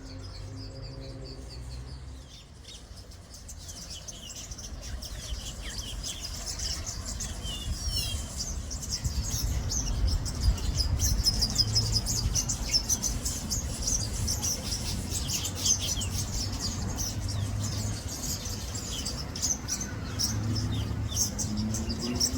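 Small garden birds chirping and twittering: many short, high calls, growing busier about a third of the way in, over a low rumble.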